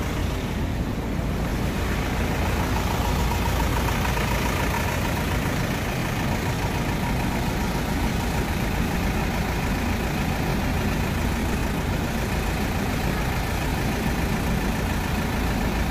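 Nissan diesel refrigerated truck's engine idling steadily, a continuous low rumble with a faint steady hum above it.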